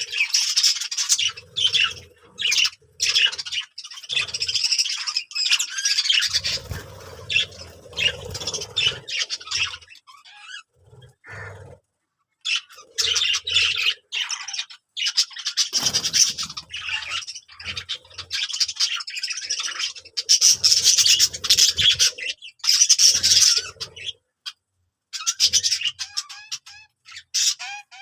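Budgerigars chattering and warbling in rapid, scratchy bouts of a few seconds each, with short pauses between.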